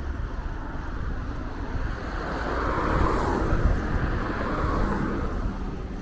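Street traffic with a vehicle passing close by: its noise swells to a peak about halfway through and fades, over a low rumble of wind and road noise.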